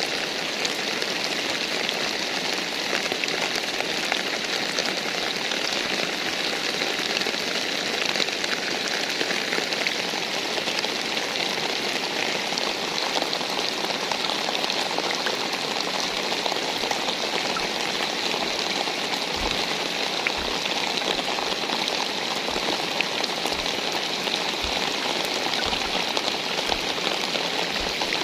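Steady rain falling, an even dense hiss with scattered ticks of individual drops. From about two-thirds of the way through, a string of short, dull low thumps sounds every second or so.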